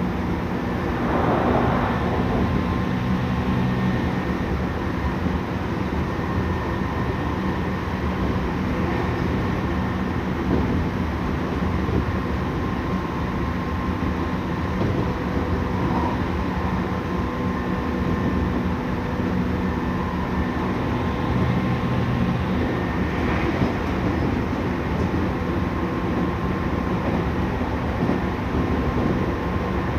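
Interior running sound of a Tokyu 5000 series electric train with Hitachi IGBT-VVVF traction equipment, at speed. The traction motors give a steady hum with several fixed tones over the continuous rumble of the wheels on the rail.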